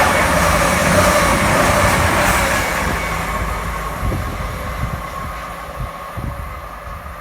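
A Class 222 Meridian diesel multiple unit passing through the station at speed. It is loudest at the start and fades steadily as it draws away, with a few sharp clacks from the wheels in the second half.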